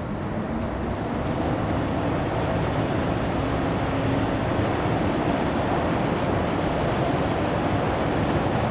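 Engine of an inland cargo ship on the Rhine running steadily as it passes close: a dense low rumble with a faint hum that grows a little louder over the first couple of seconds, then holds.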